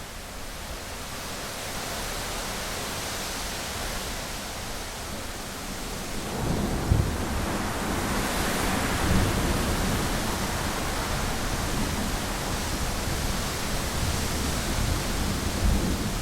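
Heavy rain on a window, a steady hiss. About six seconds in, a low rolling thunder rumble builds in under the rain, with a sharper crack near seven seconds, and keeps rumbling after.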